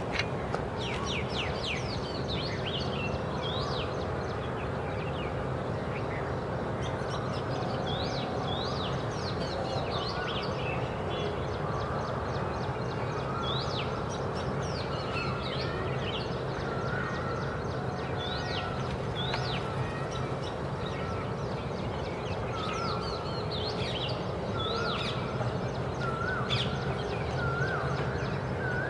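Oriental magpie robin calling: many short, sharp, high notes repeated again and again, with some lower whistled notes joining in the second half, over a steady low background hum.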